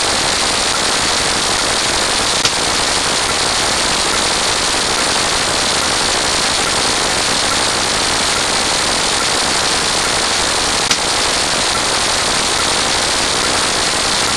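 Many sound effects layered and played at once, merging into a steady, dense wall of noise. Two sharp clicks stand out, one about two and a half seconds in and one about three-quarters of the way through.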